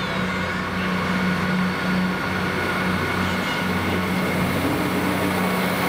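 Class 158 diesel multiple unit approaching and running past along a station platform, its underfloor diesel engines giving a steady pulsing drone with a faint high whine over the rumble of the wheels.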